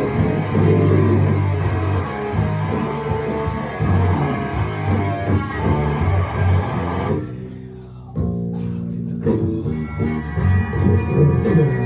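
Live rock band playing an instrumental passage on electric guitar and bass guitar. About seven seconds in the full sound drops away briefly, then the band comes back in with a ringing chord.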